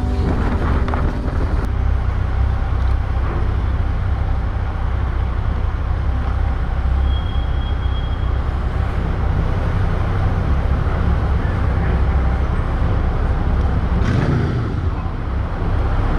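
Steady low rumble of a motorcycle on the move, with a short dip in level near the end.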